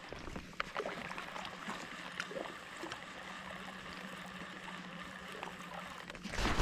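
Water lapping and trickling quietly against a kayak's hull, with a few faint small clicks.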